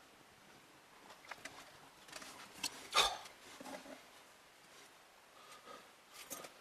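Scattered light clicks and knocks of hands handling computer parts during a case-fan and cooler-cover installation, with one sharper knock about three seconds in.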